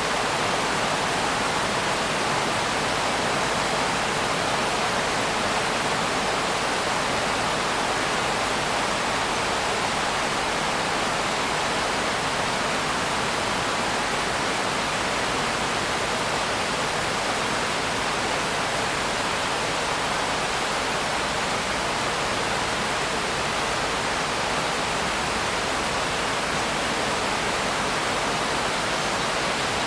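Steady, heavy rain: a continuous, even hiss with no separate drops, thunder or changes in level.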